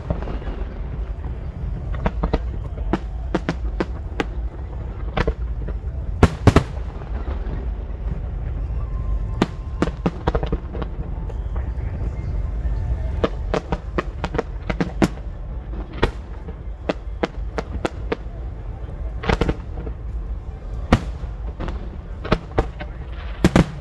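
Aerial fireworks bursting: an irregular string of sharp bangs and crackles over a steady low rumble, with a dense cluster of bursts near the end.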